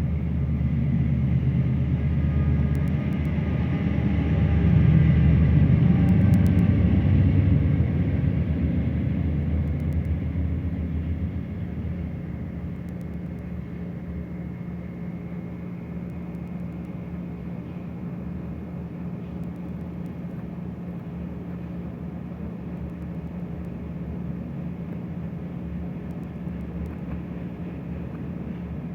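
Diesel freight locomotives running past, loudest in the first dozen seconds and peaking about five seconds in, then settling into a steadier, quieter rumble with a low hum.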